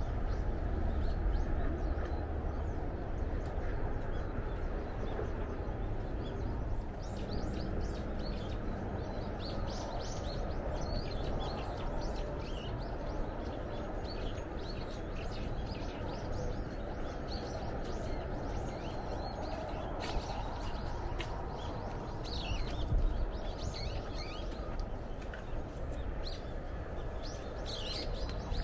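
Small birds chirping and calling over and over, many short notes scattered throughout, over a steady low background noise.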